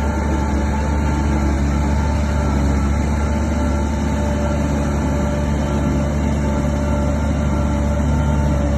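Heavy diesel engine of a SHANTUI DH17 bulldozer running steadily with a deep, even drone.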